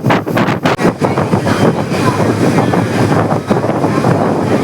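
Loud, steady rumbling noise with wind buffeting the microphone, as from a moving vehicle.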